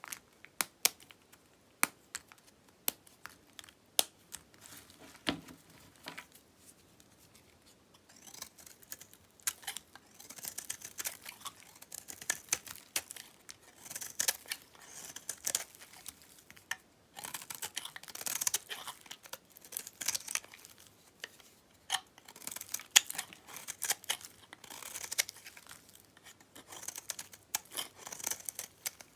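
Knife cutting through dry dyed soap: crisp crackling cuts in short runs, one every second or two, after several seconds of scattered sharp clicks.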